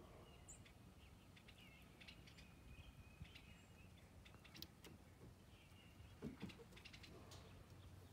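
Faint birds chirping and calling, many short scattered notes, over a low steady rumble.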